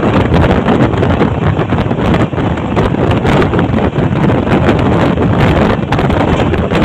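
Wind buffeting the microphone from the side of an express train running at full speed, over the steady rumble of the coaches' wheels on the track, with frequent short knocks.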